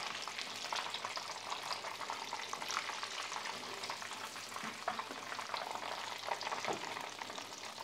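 Breaded chicken nuggets sizzling and crackling as they shallow-fry in hot oil in a pan, with a few light clicks of a slotted spatula turning them and lifting them out.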